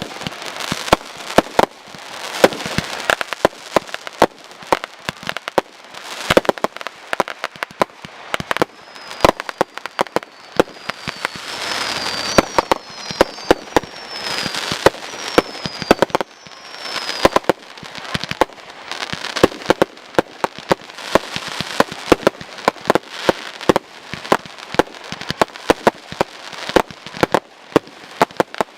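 A fireworks display in a dense, rapid barrage of sharp reports and crackle. Several short falling whistles sound near the middle.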